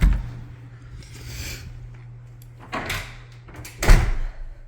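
A door being handled: a knock at the start, then a heavy thump about four seconds in as it shuts, over a steady low hum.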